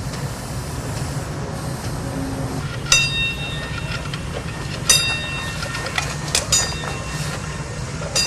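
Train cars rolling on rails: a steady low rumble broken by several sharp metallic clanks that each ring briefly, the first about three seconds in and a cluster near six seconds.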